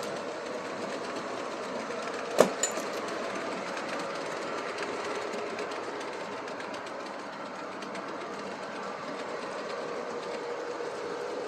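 Model Pennsylvania GG1 locomotive and its train running on the layout track: a steady mechanical whir of motor and wheels. One sharp click sounds about two and a half seconds in.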